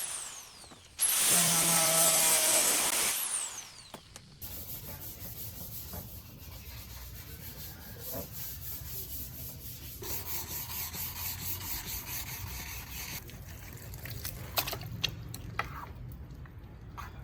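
A loud whooshing sweep that falls in pitch over the first three seconds, then repeated rubbing strokes like hand sanding on the boat, over a low steady hum, with a few sharp clicks near the end.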